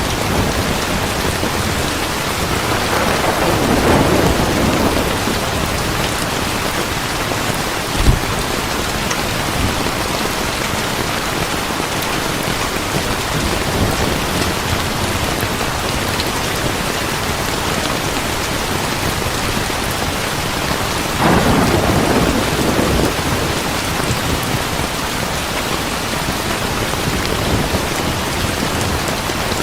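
Steady heavy rain with rolls of thunder swelling about 3 seconds in and again about 21 seconds in, and a short sharp low thump about 8 seconds in.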